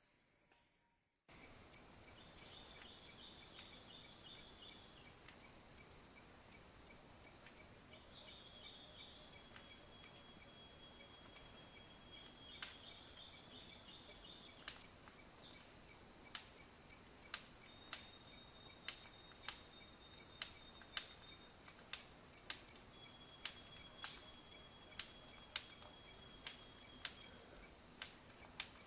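A steady, high insect trill, fairly faint, starting abruptly about a second in. Sharp clicks come at irregular intervals and grow more frequent in the second half; they are the loudest sounds.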